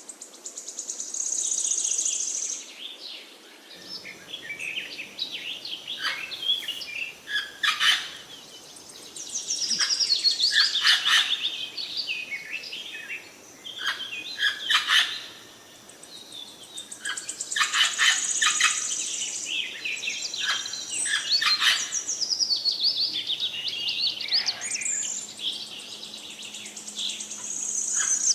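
Many birds chirping and twittering at once, short overlapping calls that swell into louder bouts of chatter several times.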